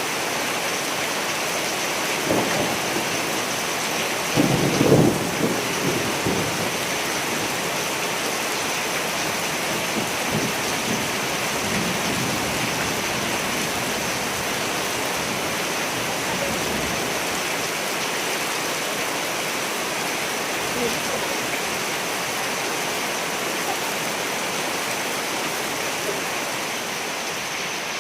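Steady rain with thunder rumbling: a short rumble about two seconds in, the loudest and longest one about four to six seconds in, then fainter rumbles later.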